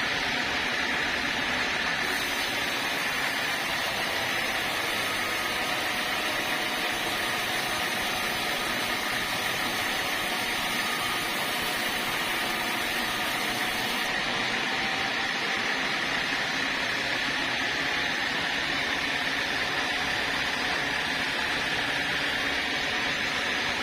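Sawmill saw and its machinery running steadily, with an added high hiss from about two seconds in until about fourteen seconds in.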